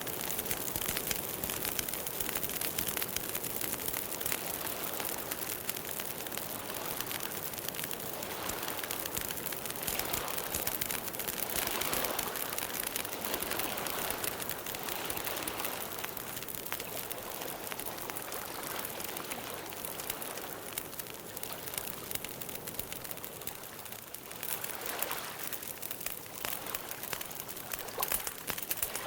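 Campfire burning, a steady dense crackle of many small pops over a soft hiss.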